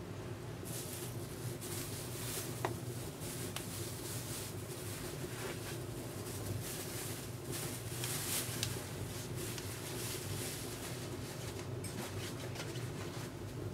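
Wood fire burning in a Contura wood stove: soft crackling and hissing with scattered small pops, the clearest a little under three seconds in, over a steady low hum.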